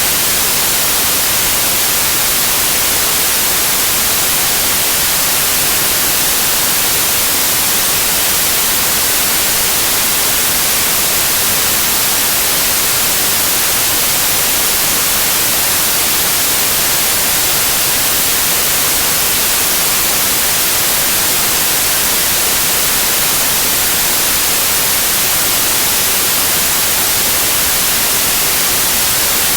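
Steady white noise like television static: an even hiss, brightest in the treble, that does not change.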